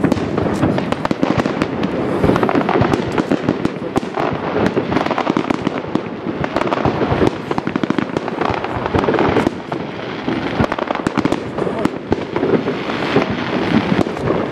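Aerial fireworks display, with shells bursting in quick succession: a dense, continuous run of bangs and crackles.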